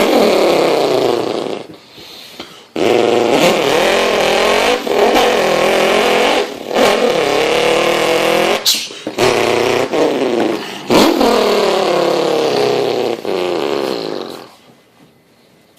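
A person imitating a Subaru's engine with their mouth: a buzzing vocal engine noise revving up and down in a series of runs broken by short pauses, stopping about a second before the end.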